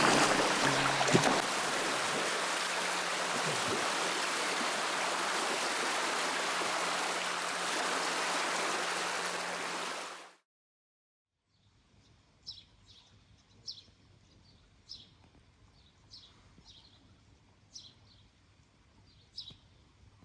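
A steady rushing noise of water or wind, with a low steady hum under it, cuts off abruptly about ten seconds in. After a moment's silence come faint bird chirps, short downward-sweeping calls about once a second or so.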